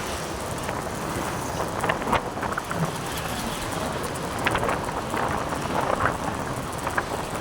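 Wind rushing over the microphone of a riding motorcycle, with engine and road noise underneath and scattered short clicks and rattles.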